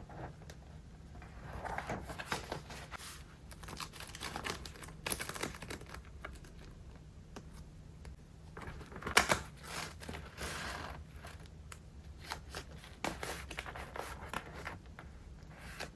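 Pages of a thick collage journal, layered with stickers and paper scraps, being turned and handled: irregular paper rustles and crinkles with crisp taps, the sharpest rustle about nine seconds in.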